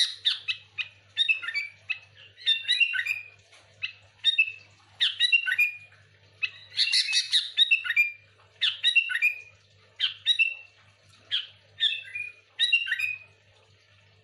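Sooty-headed bulbul (kutilang) singing vigorously: quick phrases of chattering, down-slurred whistled notes about once a second, with two harsher, scratchy calls, one at the start and one about seven seconds in. The song stops about a second before the end; a faint low hum runs underneath.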